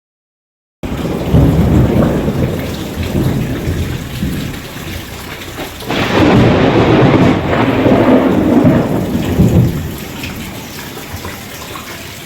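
Thunder rumbling over heavy rain. It starts suddenly under a second in and comes in two long rolls, the second about six seconds in, then settles to the steady hiss of rain.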